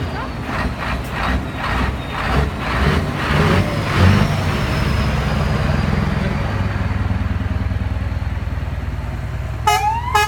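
Truck diesel engine running with a steady low drone, then two short horn blasts near the end, each rising slightly in pitch.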